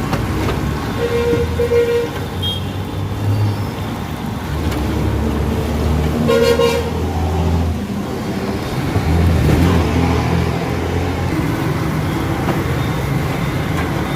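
Street traffic: vehicle engines running with car horns honking, a short double honk about a second in and another honk a little past the middle.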